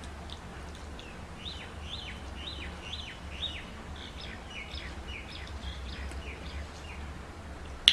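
A small bird chirping over and over, a quick run of short notes that each fall in pitch, above a low steady hum. A single sharp click comes at the very end.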